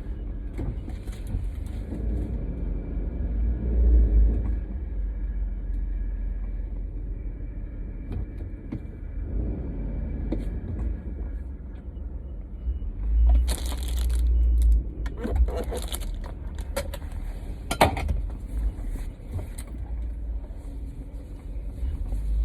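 Steady low rumble of a car being driven, heard from inside the cabin, with a cluster of brief sharp clicks and knocks a little past halfway through.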